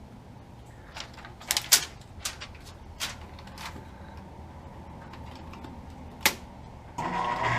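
A run of sharp clicks and knocks from handling an air conditioner's outdoor electrical disconnect box, then, near the end, a 2007 Guardian 4-ton central air conditioner's condensing unit with its Bristol compressor starts up with a sudden, steady hum.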